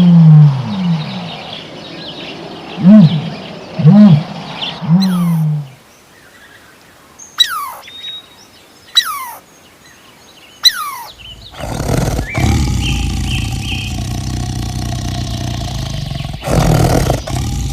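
Deep animal calls, one about every second for the first few seconds, then a few high calls that fall sharply in pitch, then a steady noisy sound with held tones from about eleven seconds in.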